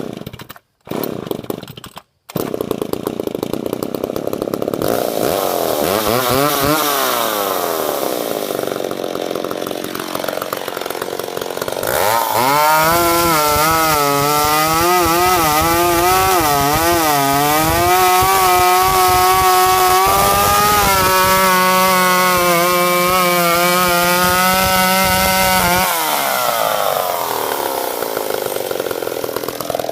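Vintage McCulloch Pro Mac 700 two-stroke chainsaw sputtering into life in a few short bursts, then idling. It is revved several times, held at high speed for several seconds, then let drop back to idle near the end.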